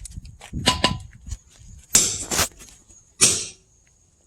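A hammer striking a steel splitting wedge set in a log's natural crack, working it in to split the log: four sharp strikes, unevenly spaced.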